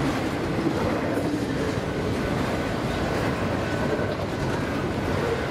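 Intermodal freight train's cars rolling past at speed, a steady rumble of steel wheels on the rails.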